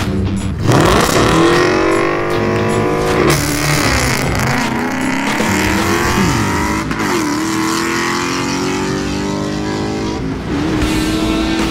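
Two drag cars, a red Ford Mustang and a 1995 Cadillac Seville, launching hard from the start line and accelerating away down the strip. Their engines rev up, rising in pitch, and drop back at each gear change, about three upshifts.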